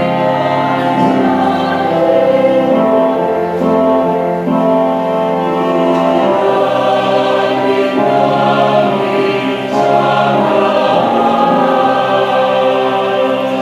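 Mixed church youth choir singing a hymn in several parts, holding long notes.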